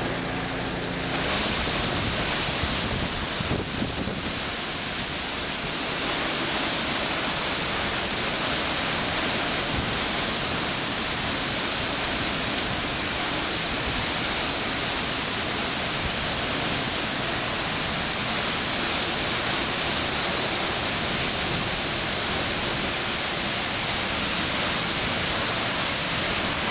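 Hurricane wind and rain making a loud, steady rushing noise, with wind buffeting the microphone; it begins about a second in.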